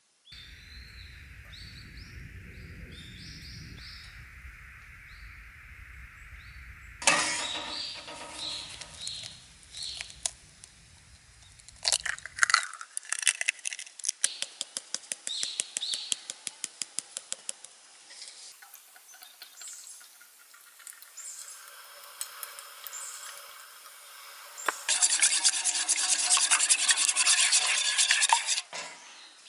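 A string of short cuts of outdoor sounds: birds chirping over a steady hiss and low rumble, then crackling and a fast run of sharp clicks, and near the end a loud, dense hiss.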